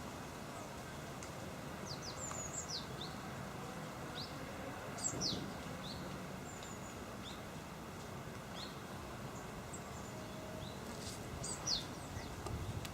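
Small birds chirping in scattered, short calls that slide quickly down in pitch, over a steady outdoor background hum.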